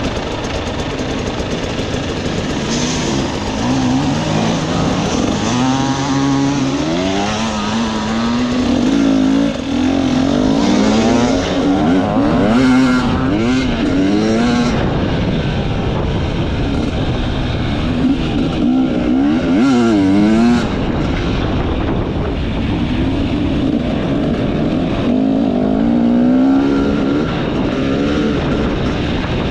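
Enduro motorcycle engine running under load off-road, its pitch climbing in steps and dropping again several times as the throttle is worked, with one sharp rev up and down about two-thirds of the way through.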